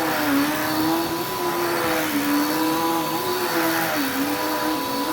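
Upright vacuum cleaner running on carpet, a steady motor whine whose pitch wavers up and down as it is pushed back and forth.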